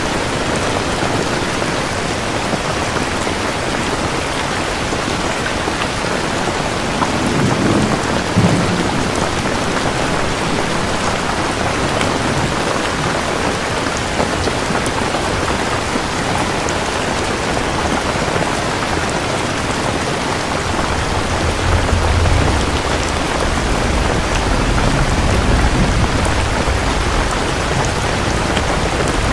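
Steady rain falling, with thunder: a short low rumble about a quarter of the way in, then a longer, deeper rolling rumble from about two-thirds of the way through to the end.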